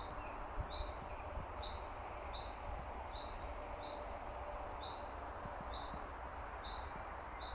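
A bird calling one short, high note over and over, about once every three-quarters of a second, over a steady hiss and a low rumble.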